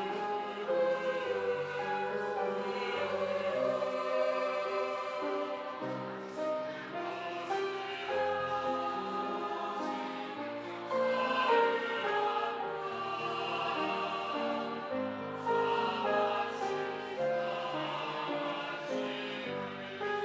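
Choral music with instrumental accompaniment: sustained chords over a bass line that steps from note to note.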